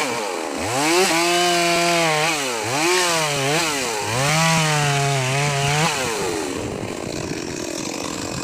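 Two-stroke chainsaw revved repeatedly as it trims wood: the engine pitch climbs, holds at full throttle for a second or so, then drops, about four times. About six seconds in the revving stops and a quieter steady noise is left.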